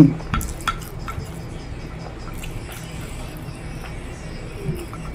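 Close-up eating sounds of a person chewing a spoonful of rice: a short hum of the voice at the start, then a few wet mouth clicks and smacks in the first second and scattered softer ones after, over a faint steady low hum.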